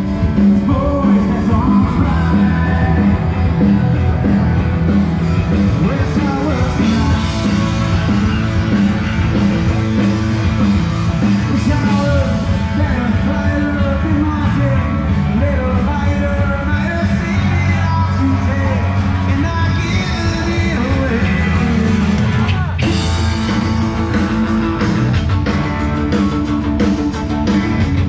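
Live punk rock band playing a loud song, with singing over electric guitars and drums.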